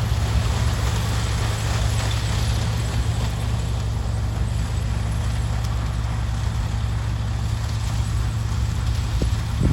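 Sugarcane harvester running steadily at work, a deep, even engine hum under a wash of mechanical noise, with a few brief knocks near the end.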